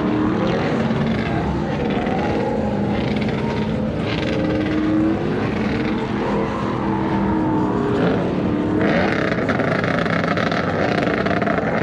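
Several vehicle engines running and revving at once, their pitch rising and falling. About nine seconds in, a steady hiss joins for a couple of seconds.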